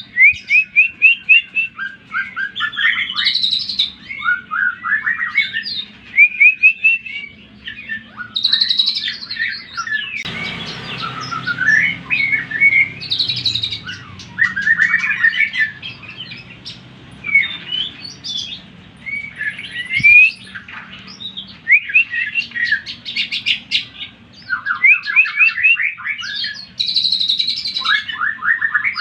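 Greater green leafbird (cucak ijo) singing continuously in fast, varied phrases of rapid chirps, trills and sweeping notes. This is a pancingan lure song used to rouse other leafbirds. About ten seconds in, a low rumbling noise sits under the song for several seconds.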